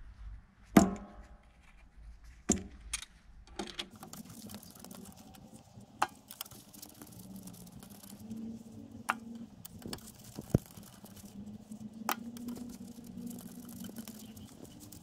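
Sharp metallic clinks and knocks of tools and engine parts being handled during a motorcycle engine teardown, about eight in all. The loudest comes about a second in and rings briefly.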